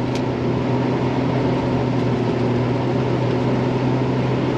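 Truck engine running at a steady, low engine speed while the truck crawls through snow, an even drone with no revving.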